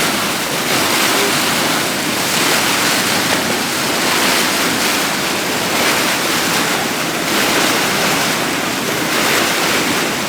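Water rushing steadily and loudly, without a break.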